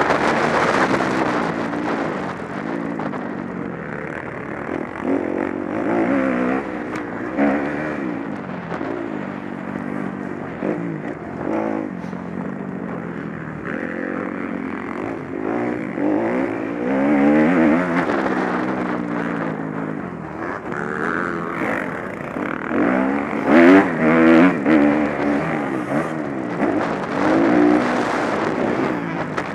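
Several motocross bikes' engines revving, the pitch rising and falling as they accelerate and shift, with more than one engine heard at once. The sound gets louder near the end as bikes come closer.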